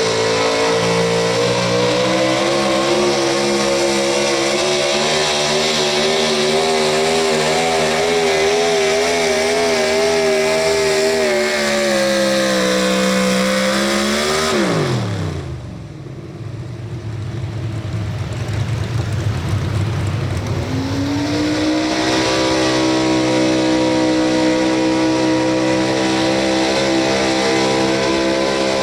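Pro Stock 4x4 pulling truck engine running at high revs under full load, its pitch wavering, then sagging and sweeping sharply down as the throttle comes off about fifteen seconds in. A few seconds later another engine rises to a steady high note and holds it.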